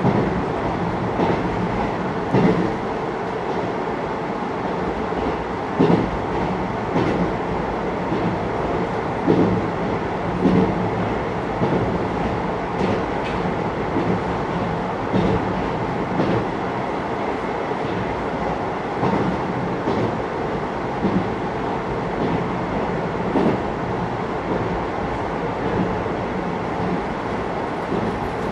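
Running noise inside a JR Hokkaido 733 series electric train travelling at speed between stations: a steady rumble with scattered, irregular knocks from the wheels over rail joints.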